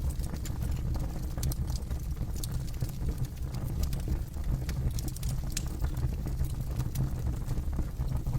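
Campfire burning with a low steady rumble and scattered sharp crackles and pops of burning wood.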